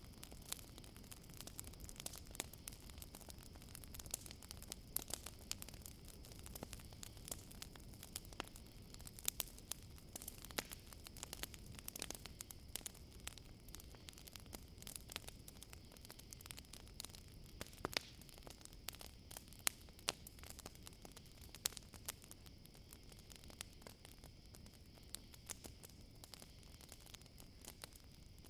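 Campfire crackling, with many small sharp pops scattered irregularly over a low steady hiss. A steady high trill of crickets runs underneath.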